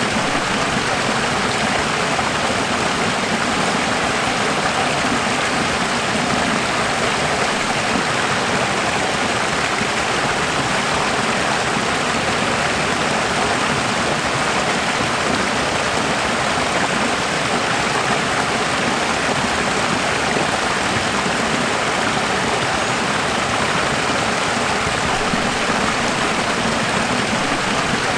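Running water rushing steadily, an even unbroken hiss like a stream.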